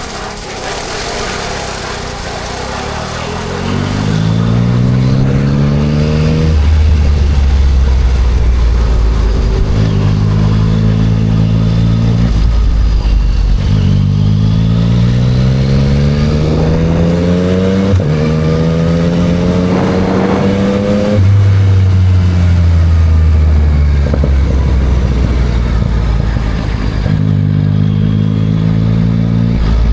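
2024 Yamaha MT-09 SP's 890 cc inline-three running through a Spark aftermarket full exhaust, heard from the rider's seat. The engine pulls up in pitch several times, with upshifts marked by sudden drops at about 6, 18 and 21 seconds in. Wind and road noise run underneath.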